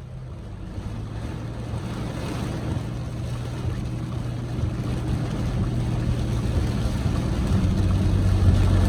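Inside a moving vehicle: a steady low engine hum under a rushing noise of wind and road that grows steadily louder.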